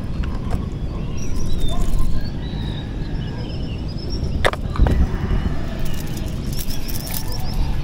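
Small birds chirping and twittering over a steady low rumble, with two sharp knocks about four and a half and five seconds in.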